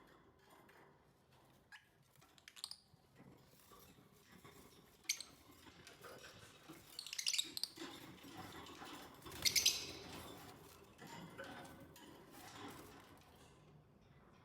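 Lovebirds chirping in short, shrill bursts, the loudest about seven and nine and a half seconds in.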